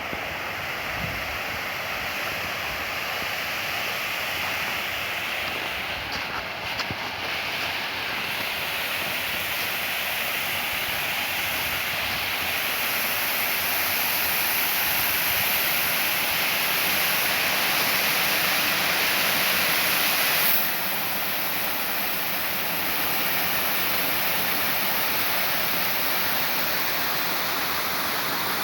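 Mountain stream rushing steadily. The noise slowly swells, then drops suddenly about three-quarters of the way through.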